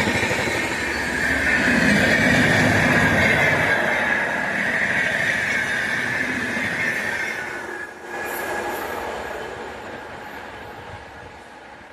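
A train passing on the adjacent track. Its wheels squeal in a high tone that slides slightly lower and cuts off about eight seconds in, over the rolling rumble and clatter of the wagons, and the sound fades steadily as the train goes by.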